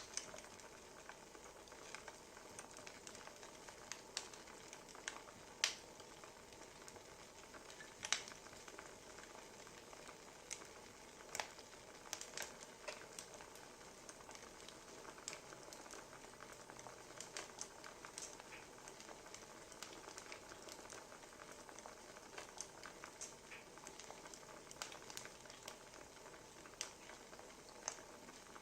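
Wood fire crackling: irregular sharp pops and snaps over a quiet steady hiss.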